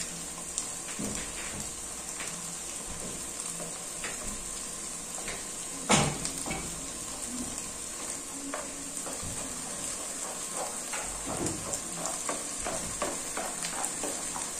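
Chile sauce and onions sizzling steadily in hot oil in a frying pan, with small clicks and knocks of kitchenware. A single loud knock about six seconds in as the glass blender jar is set down on the stove, and near the end a spatula begins scraping the sauce through a plastic strainer.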